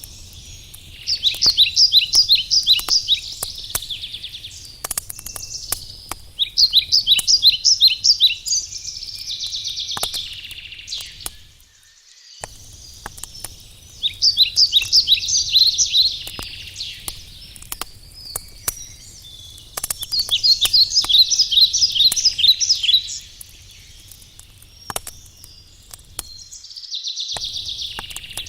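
A songbird singing a phrase of rapid high notes, repeated about every six seconds, over scattered sharp crackles from a burning wood campfire.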